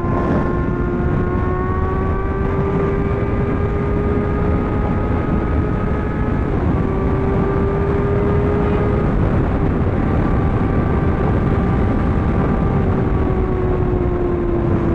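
Superbike engine running at a steady cruise at highway speed, its pitch holding nearly level with slight rises and falls, over heavy wind noise.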